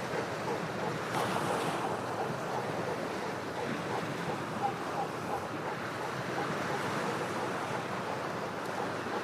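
Ocean waves washing against shoreline rocks: a steady surf, with a wave breaking a little louder about a second in.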